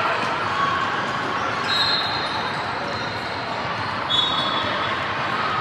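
Basketball game sound in a gym: a steady hubbub of voices and play, with short high squeaks, likely sneakers on the court, about two seconds in and again about four seconds in.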